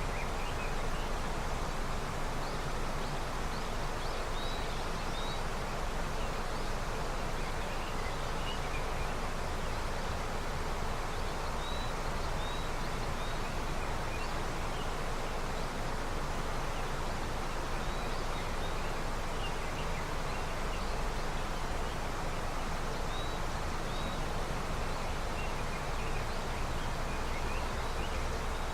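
River swollen with early snowmelt, flowing in a steady rush. Small birds give faint short chirps now and then over it.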